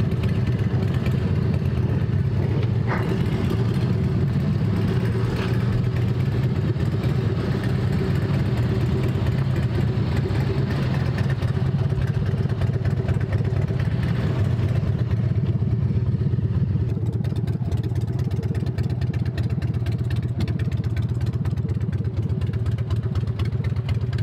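Harley-Davidson Road King's V-twin engine idling steadily.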